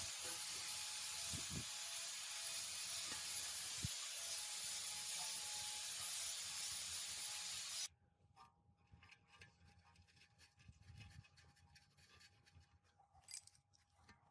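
A steady hiss, even and without strokes, that cuts off suddenly about eight seconds in. After it come faint scattered knocks.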